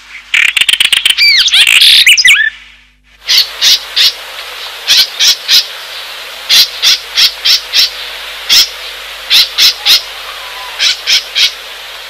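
A bird calling: sharp, short notes in quick groups of two to four, repeated every second or so over a steady hiss. Before the calls, about two seconds of rapid clicking and loud sweeping whistled notes, the loudest part.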